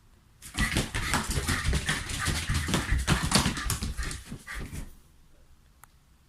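Shiba Inu dogs in rough play, a dense run of scrabbling and scuffling with dog vocal sounds mixed in, lasting about four seconds before stopping.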